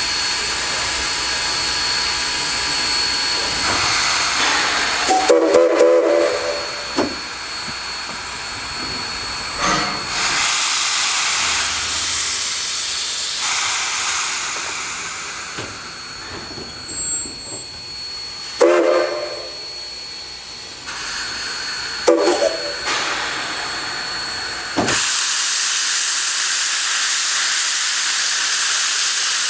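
Narrow-gauge steam locomotive hissing steam steadily, with several short blasts of its steam whistle: a cluster of toots about five seconds in, then single short toots near 19 and 22 seconds.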